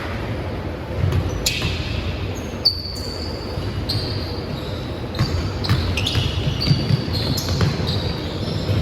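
Basketball game on an indoor court: the ball bouncing, with many short, high sneaker squeaks on the floor and a few sharp thumps, in a reverberant hall.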